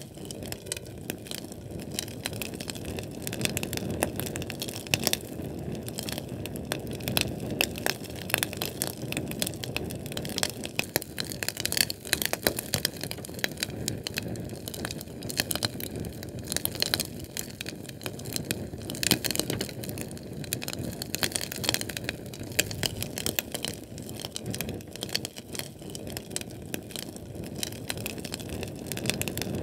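A Sterno canned-fuel flame crackling: dense, irregular sharp pops and ticks over a low steady rumble of burning, with louder clusters of pops now and then.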